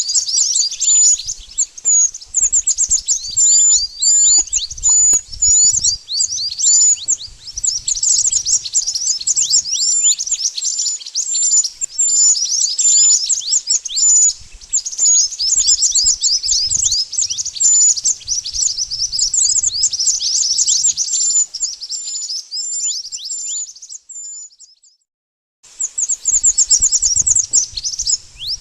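Oriental magpie-robin (mantenan) song: a fast, unbroken stream of high, thin chirps and down-slurred whistles. It cuts out for about two seconds near the end, then starts again.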